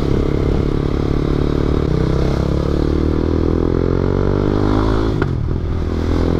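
KTM motorcycle engine through an Akrapovic exhaust, accelerating with its pitch climbing steadily, then a gear change about five seconds in and the pitch starts climbing again.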